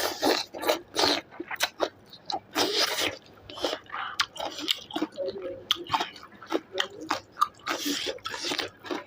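Close-miked chewing and mouth noises of a person eating chicken: irregular wet smacks and clicks.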